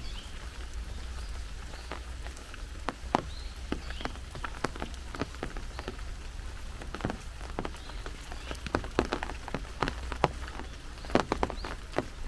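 Rain falling, with many irregular single drops tapping sharply on an umbrella held overhead.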